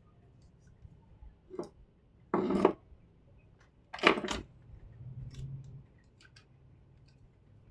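Small hand tools at work on a circuit board: two short rasping sounds about a second and a half apart, among light clicks.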